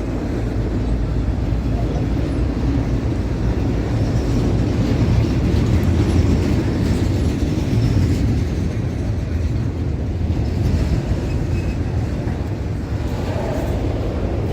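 A train's cars rolling past in a steady, loud low rumble.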